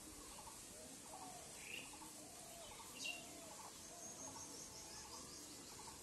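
Birds chirping and calling faintly in the background, with a fast, high trill from about four seconds in. A single sharp click about three seconds in.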